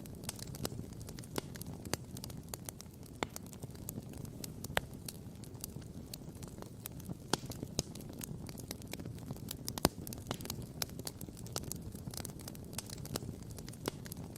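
Wood campfire crackling and popping: many sharp, irregular pops over a steady low rumble, the loudest pop coming about ten seconds in.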